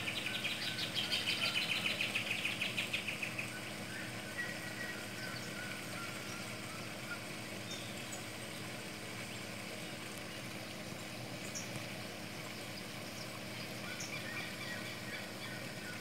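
A bird's rapid, high trill for the first few seconds, fading out, then faint scattered bird chirps over a steady low hum.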